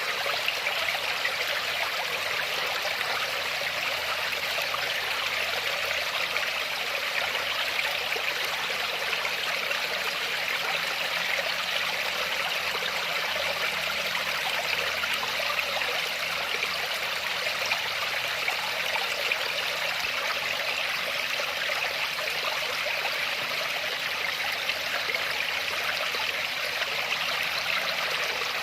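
Water falling and rushing over rocks, a steady unbroken splashing hiss without pauses or changes.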